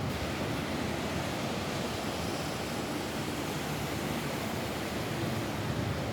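Steady rain falling on a roof: an even, continuous hiss with a low rumble beneath it and no separate drops standing out.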